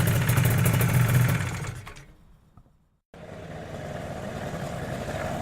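Motorcycle engine idling after pulling up, fading out about two seconds in. After a brief silence, another motorcycle engine starts up abruptly at a steady idle about three seconds in.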